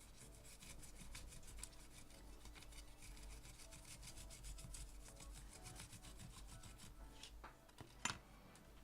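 Fast, even scratching strokes of hand work on a flood-damaged body control module's circuit board, with one sharp click near the end.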